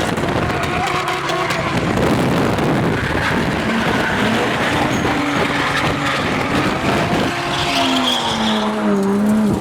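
Toyota Chaser's 1JZ straight-six engine revving hard while the car drifts, with tyres screeching. The revs rise and fall through the slide and drop away near the end.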